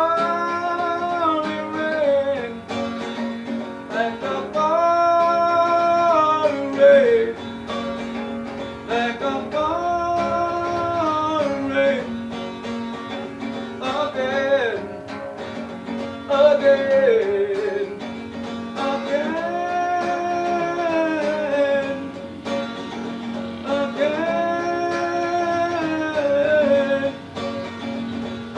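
A man singing a ballad in long held notes over acoustic guitar accompaniment, the phrases drawn out and falling away at their ends.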